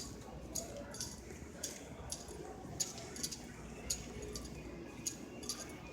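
Footsteps clicking on a hard floor, about two steps a second, over low steady background noise.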